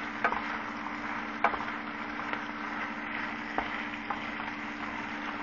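Pieces of chicken breast frying in a pan in their own grease: a steady sizzle with a few sharp pops and crackles scattered through, over a steady low hum.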